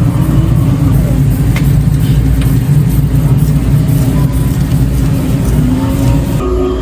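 Electric mobility scooter driving, a steady low rumble with light rattling that stops near the end.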